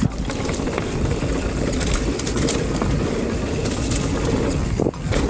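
Downhill mountain bike running over the trail: wind buffeting the action-camera microphone over a low rumble, with scattered rattles and clicks from the bike. The noise drops away briefly near the end.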